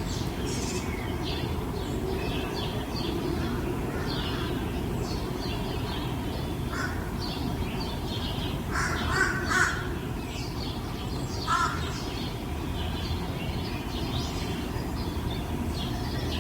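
Many small birds chirping and calling over each other, with a few louder, harsher calls about seven, nine and eleven and a half seconds in, over a steady low background rumble.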